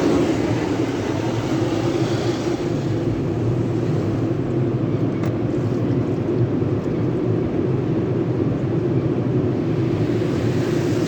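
Tunnel car wash machinery running with a steady, loud rushing drone.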